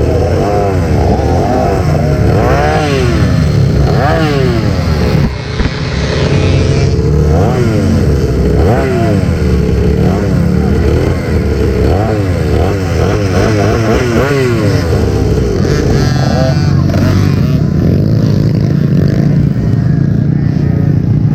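Several small 50cc dirt bike engines racing at once, their pitch repeatedly rising and falling and overlapping as the riders throttle on and off around the track.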